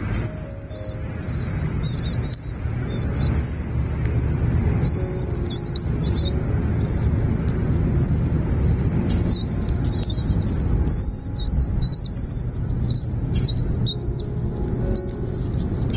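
Small birds chirping: quick clusters of short, high-pitched chirps again and again, over a steady low rumble.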